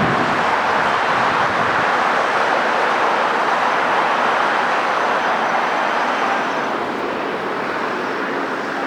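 Jet airliner engine noise: a steady, loud rush that eases off slightly near the end.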